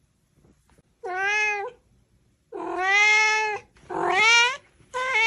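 A cat meowing: four drawn-out meows in a row, the second the longest.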